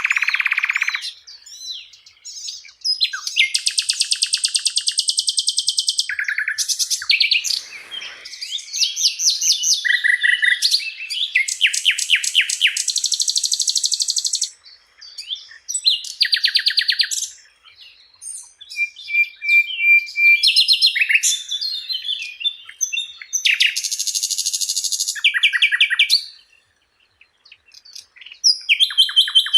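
Sikatan Londo flycatcher singing a long, varied song of rapid trills, buzzy rattles, repeated notes and short whistles, phrase after phrase with brief pauses between them.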